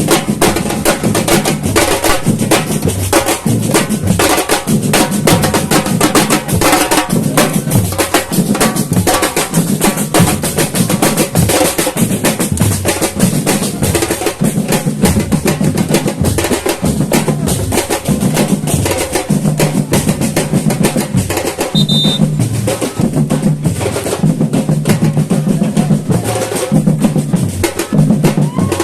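Samba batucada drum ensemble playing a steady groove: deep bass drums beating out a repeating pattern under dense, rapid snare and other hand-percussion strokes.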